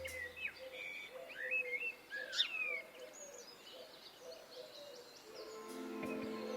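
Birds chirping with short rising and falling calls over a low call repeated about twice a second. Steady music fades back in near the end.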